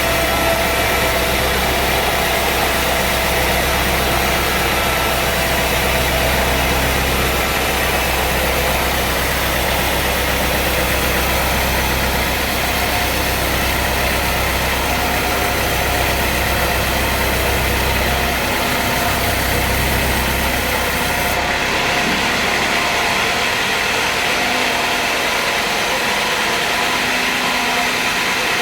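Engine-driven sawmill machinery running steadily. About 21 seconds in, the deep hum drops out and the sound changes.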